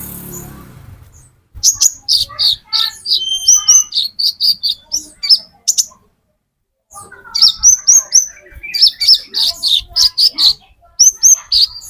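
A sunbird of the kind Indonesian keepers call konin metalik singing: rapid strings of sharp, high chirps and trills in two bouts, with a pause of about a second between them.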